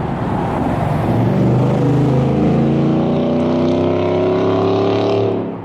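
Ford F-150's 5.0 V8 running through a 4-inch MBRP cat-back exhaust, accelerating with its exhaust note rising steadily in pitch. The sound cuts off abruptly near the end.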